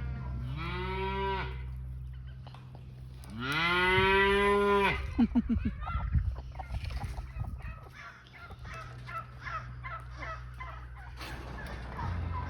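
Cow mooing twice in long calls, the second louder. Farm poultry follow with a run of short, rapid calls, over a steady low hum.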